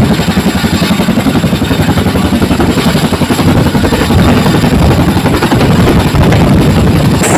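Chinook tandem-rotor helicopter running loud, its rotors beating in a rapid, even pulse over a dense wash of noise.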